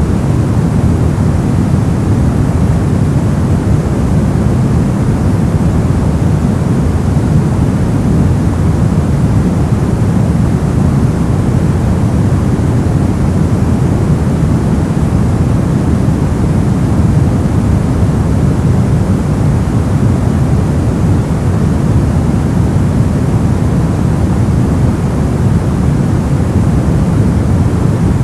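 Brown noise: a steady, deep rumbling hiss, strongest in the bass and dark in the highs, with no change.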